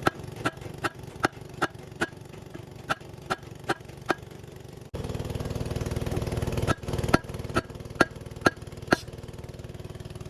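Hammer blows on metal, in runs of four to six strikes at about two and a half a second with short pauses between, each with a ringing note. From about halfway through, a steady engine hum runs under the strikes.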